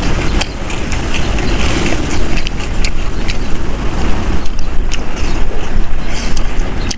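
Strong wind buffeting the microphone: a loud, steady rumble with scattered clicks and rattles through it.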